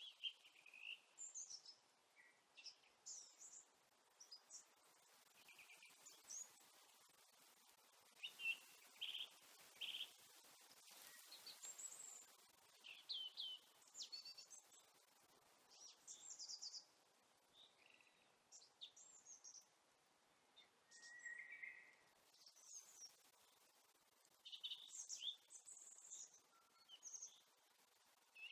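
Faint songbirds chirping and calling outdoors: many short, high chirps and trills scattered throughout, over a quiet steady background hiss.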